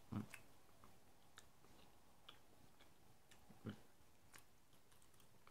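Faint chewing of a slice of Genoa salami: soft mouth clicks scattered throughout, with two brief louder low sounds, one just after the start and one a little past halfway.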